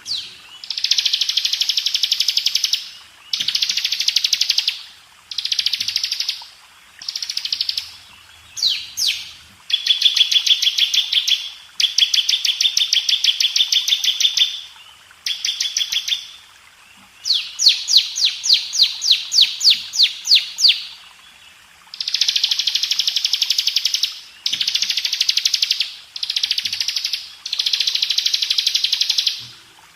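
Bar-winged prinia (ciblek) singing in repeated phrases of fast, high trills, each one to three seconds long with short pauses between. One phrase about two-thirds of the way through is slower, a run of separate downward-sweeping notes.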